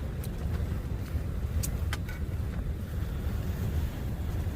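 Strong wind making a steady low rumble, with a few faint clicks in the first two seconds.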